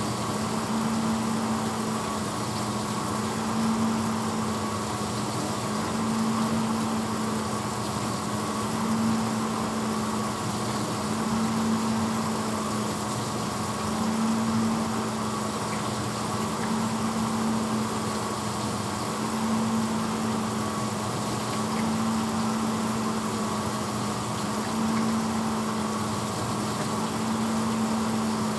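1986 Hotpoint Potwasher dishwasher running mid-cycle: a steady motor hum over the hiss of spraying water, swelling and fading in an even pulse about every two and a half seconds.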